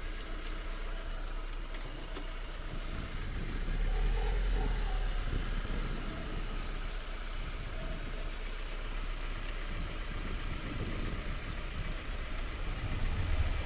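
Vauxhall Cavalier Mk2's S16SH 1.6-litre four-cylinder petrol engine idling steadily, fully warmed up. With the rebuilt distributor and the ignition timing set about spot on, the idle is even and no misfire is heard.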